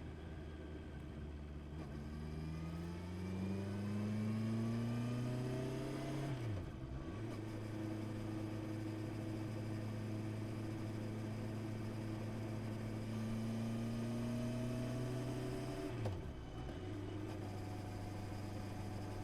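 Honda CB650R's inline-four engine pulling through the gears: the revs climb for a few seconds, drop sharply on an upshift about seven seconds in, hold steady, climb again, and drop on a second upshift a few seconds before the end.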